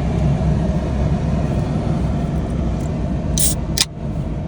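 Pickup truck engine idling, a steady low rumble. Near the end, a soda can is opened with a short hiss and a sharp click.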